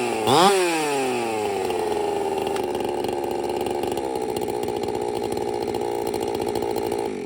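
Husqvarna 372 two-stroke chainsaw revved up once and falling back, then running at a steady speed until it is shut off at the end.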